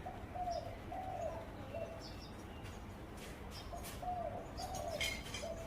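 Zebra dove cooing: two phrases of short, soft coos in a row, one at the start and another about four seconds in. Faint high chirps of small birds in the background.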